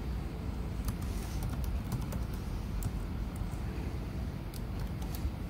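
Scattered light clicks from the laptop's keys and buttons as it is operated, a few at a time in small clusters, over a steady low background rumble.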